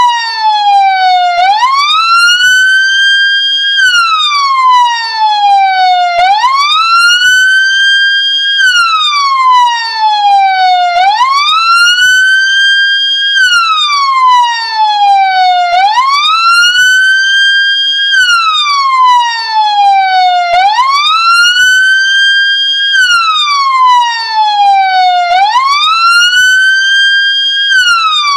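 Ambulance siren wailing: each cycle rises in pitch, holds briefly at the top, then falls slowly, repeating about every five seconds.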